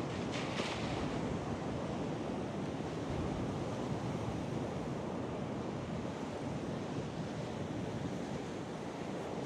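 Ocean surf breaking in a storm, a steady rushing wash, with wind buffeting the microphone.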